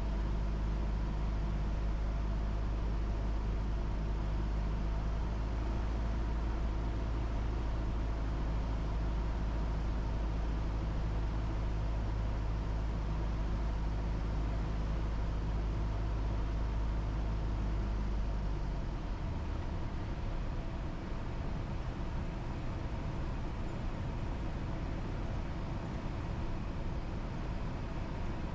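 Cessna 172's four-cylinder piston engine and propeller droning steadily from inside the cockpit on final approach. About two-thirds of the way through, the deep part of the drone drops off as power is pulled back, leaving a lighter engine and airflow noise.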